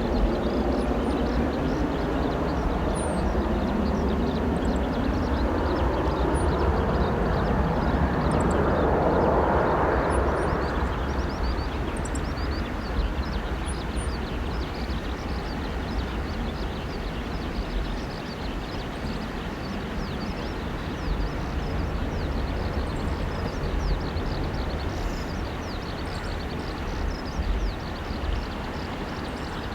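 Jet engines of a Boeing 737-800 (CFM56-7B turbofans) on the landing roll-out. The sound swells to its loudest about ten seconds in as the airliner passes, then fades steadily away.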